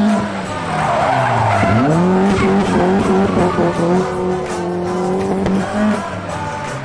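A car engine revving under load while the tyres squeal and skid; the engine note drops about a second and a half in, then climbs again and holds.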